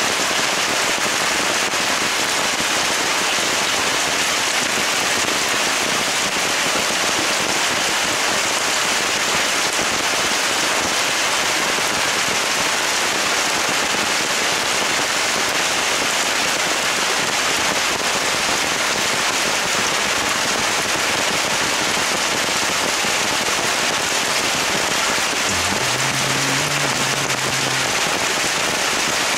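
Heavy monsoon rain falling steadily on coconut palm and mango tree leaves, a dense even rush of drops. A short low tone sounds briefly near the end.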